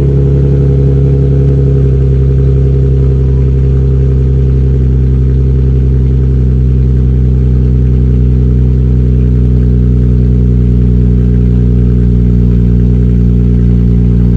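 Infiniti G35's 3.5-litre V6 idling steadily just after a cold start, the exhaust note even and unchanging while it warms up.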